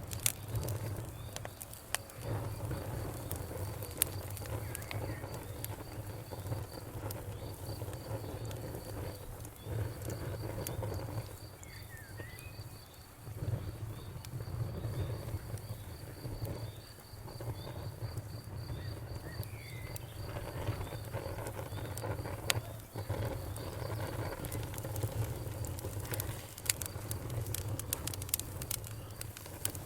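Wood fire crackling: a steady low rumble of flames with scattered sharp pops, which come more often near the end. A high, rapidly pulsing chirp runs through the first two-thirds, with a few short gliding chirps in between.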